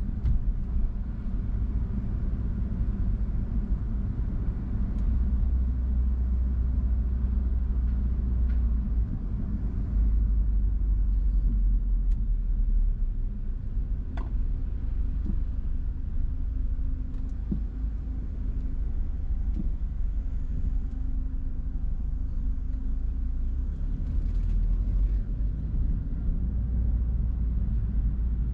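Car driving, heard from inside the cabin: a steady low engine and road rumble that swells and eases slightly, with a few faint ticks.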